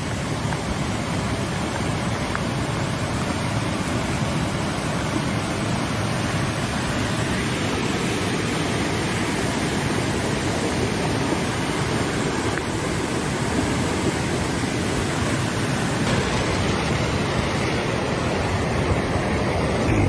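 A river in flood, its fast, swollen water rushing in a loud, steady noise.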